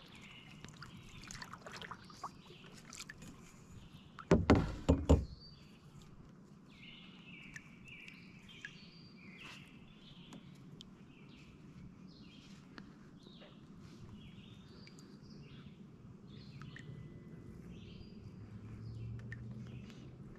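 Small birds chirping, short high calls repeating throughout. About four seconds in, a brief cluster of several loud knocks.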